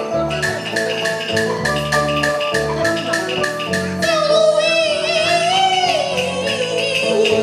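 Taiwanese opera (gezaixi) accompaniment ensemble playing a tune to a steady beat. About four seconds in, a singer comes in with a long, wavering sung line over the instruments.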